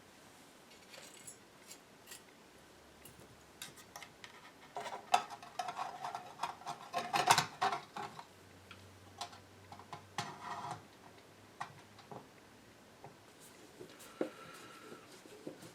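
Small metal tools and parts clicking and clinking on a workbench, with a busier run of clinks in the middle, some of them ringing briefly.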